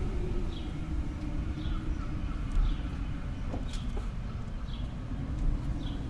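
Steady low rumble of wind, with a small bird giving a short, high call about once a second.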